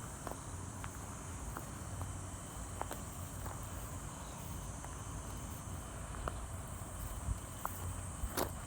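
Steady high-pitched insect chirring, with a few light scattered clicks and a low rumble underneath.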